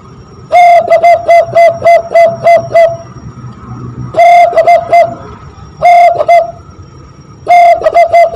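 Zebra dove (perkutut) coo imitated by blowing into cupped hands: phrases of quick, repeated hooting notes, about three a second, broken by short pauses, the first and longest run near the start.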